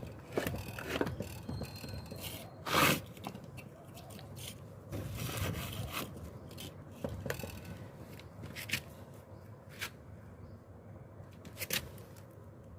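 Irregular scraping and clicking, loudest about three seconds in, with no engine running.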